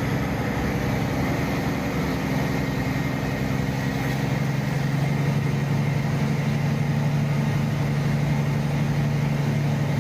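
Heavy truck's engine running steadily under way, a constant low drone heard from the cab.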